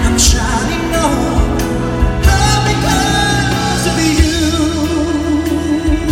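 A pop ballad sung live over a band with drums. The singer's voice moves through a melodic phrase with slides between notes, then holds a long note with wide vibrato near the end.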